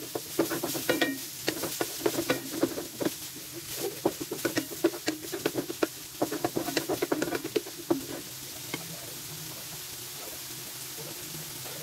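Wooden spatula stirring ground meat in a nonstick wok, with short scrapes and taps over a frying sizzle. The stirring stops about eight seconds in, leaving a steady sizzle.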